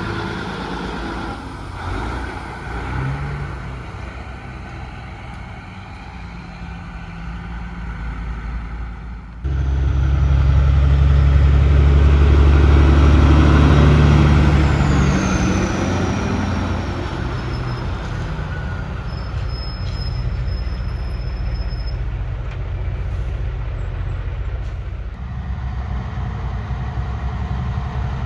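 Heavy trucks' diesel engines running past on a road. About a third of the way in, one truck's engine comes in suddenly loud and fades over several seconds, with a faint high whine falling in pitch.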